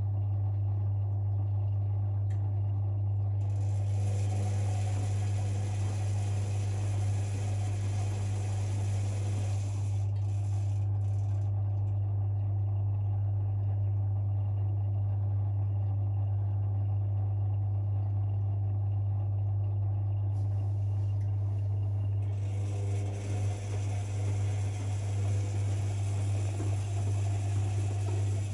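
Privileg 5020 front-loading washing machine in its wash phase: the drum turns for about six seconds with laundry tumbling and rattling, pauses for a long stretch, then turns again near the end. A steady low hum runs underneath.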